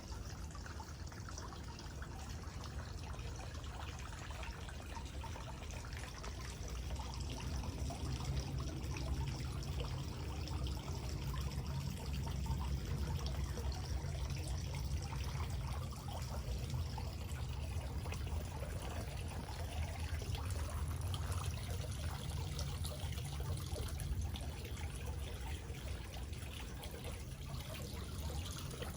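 Small backyard waterfall: water trickling and splashing steadily, with a low rumble underneath.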